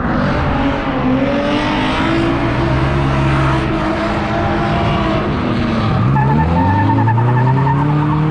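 Drift car engine revving hard under wheelspin, with tyres squealing and skidding. The engine pitch sags and then climbs again about six seconds in, and a wavering high squeal comes through near the end.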